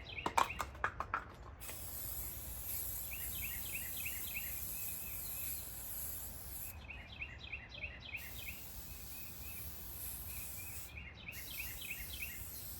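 Outdoor ambience: a steady high insect hiss with runs of rapid, repeated chirping, and a quick series of sharp clicks in the first second and a half.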